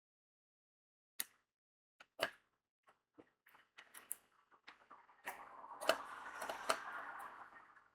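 Diamond painting work: a few separate clicks of crystal drills being pressed onto the sticky canvas with the drill pen. About five seconds in comes a couple of seconds of dense rattling and rustling as the small resin drills are handled.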